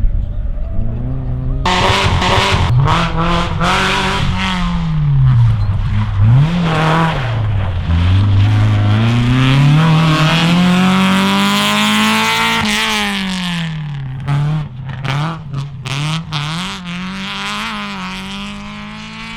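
Rally car engine at full throttle, revs rising and falling through gear changes, with one long climb in revs past the middle before it lifts off. Short sharp pops on the lift-off near the end.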